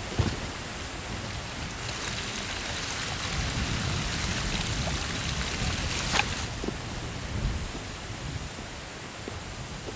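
A bundle of firewood sticks dropped onto the ground with one sharp clattering thump, followed by a steady rushing noise with scattered small clicks and a crack about six seconds in.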